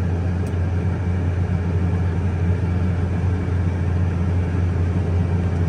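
Tractor diesel engine running steadily at a constant speed while the tractor is backed up.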